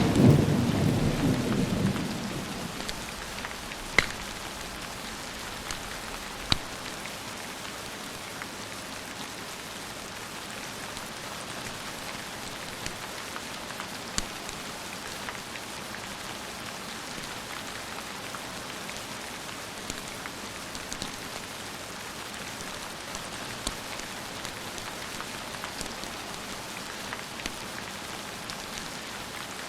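A thunder rumble dies away over the first two seconds, leaving steady rain with a few sharp pops scattered through it.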